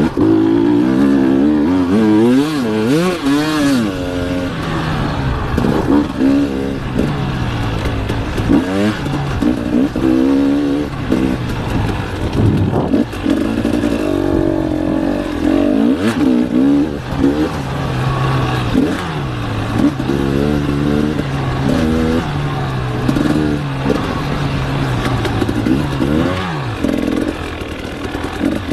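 Enduro motorcycle engine heard close from on the bike, revving up and falling back again and again as the throttle is worked over a rough dirt track.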